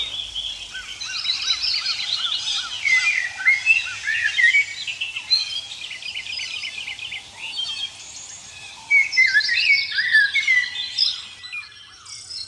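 Several songbirds singing at once: overlapping quick chirps, trills and whistled phrases. A run of evenly spaced lower notes repeats in the first few seconds, the singing thins out in the middle, then grows busy again.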